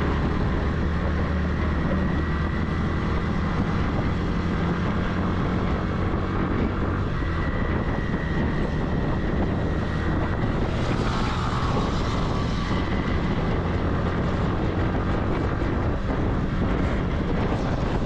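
Motorcycle engine running at a steady cruising speed, with wind and road noise; the hiss swells briefly about two-thirds of the way through.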